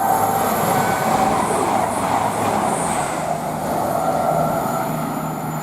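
Voyager diesel multiple unit passing at speed: a loud, steady rush of wheel and air noise with a faint engine hum, easing slightly toward the end.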